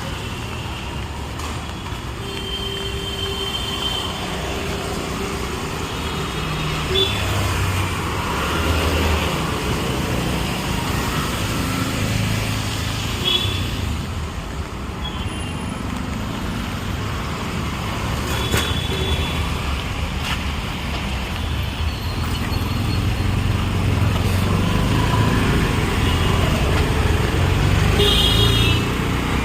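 Steady city street traffic, engines running and passing, with several short vehicle horn toots scattered through.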